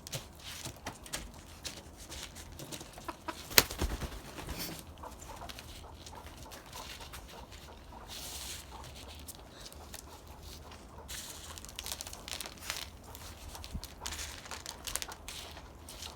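Chickens clucking softly, among small clicks and rustles of hands working. There is one sharp knock about three and a half seconds in.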